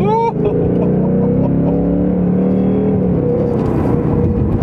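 Ford Mustang GT's V8 engine accelerating hard at full throttle, its note climbing steadily in pitch.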